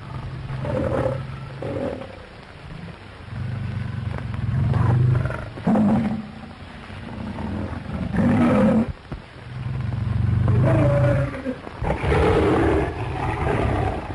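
Lions growling and roaring in several loud bouts, deep rumbling growls with harsher roars over them, separated by short lulls.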